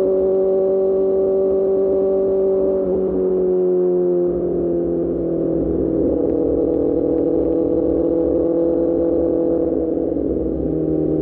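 QJMotor SRK600 inline-four engine running through an Austin Racing exhaust at steady riding revs. Its note drops in pitch about three to four seconds in, then holds steady at the lower pitch.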